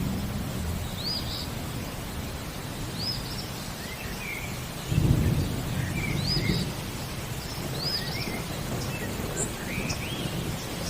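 Steady rain with thunder rumbling, a louder rumble about five seconds in. A bird repeats a short rising chirp about every two seconds, with other lower chirps between.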